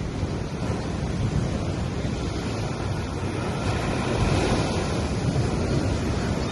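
Gentle sea waves washing onto a sandy beach, one surge swelling a little louder about four seconds in.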